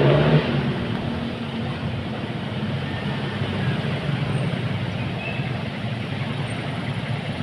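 Street traffic: a vehicle engine is loud in the first second or so, then a steady wash of road and traffic noise.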